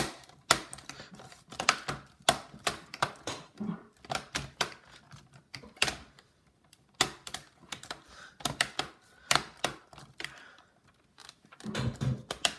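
Irregular plastic clicks and clacks of a Dell Inspiron 1545 laptop's parts being handled and pressed into place by hand during reassembly.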